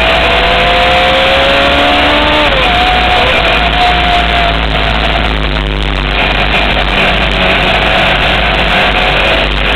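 On-board sound of a Honda CBR600 sport bike's engine pulling hard at speed, its pitch rising for about two and a half seconds, then dropping sharply at a gear change and holding steadier, under heavy wind noise.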